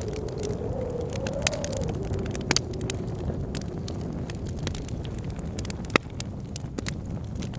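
Wood fire crackling with frequent sharp pops, the loudest about six seconds in, over the steady low rush of blizzard wind. The wind howls with a wavering tone for the first two seconds, then settles lower.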